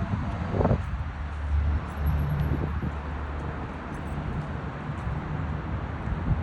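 Steady low rumble of road traffic, with a brief thump under a second in.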